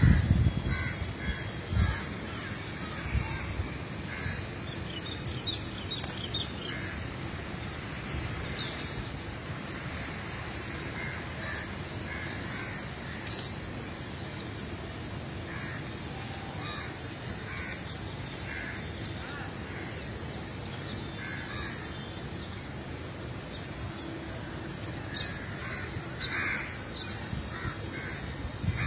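Birds calling outdoors in short, scattered calls over a steady low background noise, with a couple of low bumps in the first two seconds.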